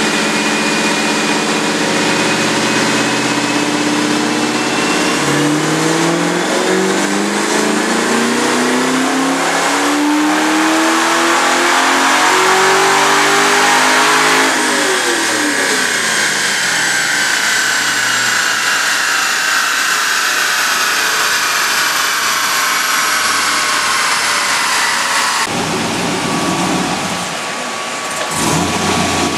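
Cammed LQ4 6.0-litre V8 in a Trans Am making a pull on a chassis dyno: the engine pitch holds for a few seconds, climbs steadily for about ten seconds, then drops away as the throttle closes and the engine and dyno rollers wind down with a falling whine.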